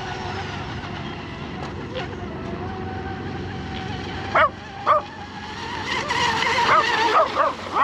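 Electric RC hydroplane's 3660 brushless motor whining out on the water, its lipo packs starting to run down. A dog barks in short yips, twice about four and a half seconds in and several more times near the end.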